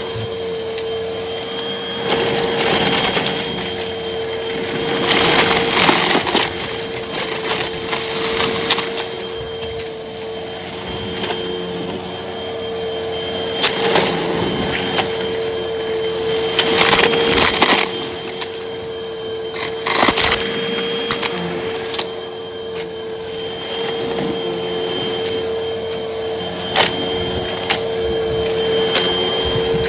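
Hoover vacuum cleaner running with a steady motor hum. Bursts of crackling and crunching come every few seconds as it sucks up light, crunchy debris.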